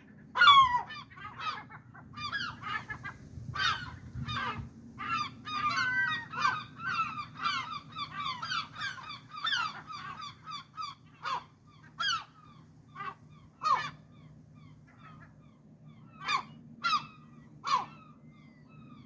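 Gulls calling again and again: a dense run of overlapping yelping calls for about the first ten seconds, then single loud calls a second or two apart, three in a row near the end.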